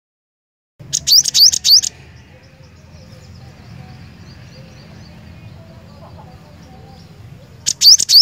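Glatik batu (cinereous tit) singing: a loud, quick burst of about four repeated rising whistled notes about a second in, softer chirps in between, and another loud burst near the end, over a low background hum.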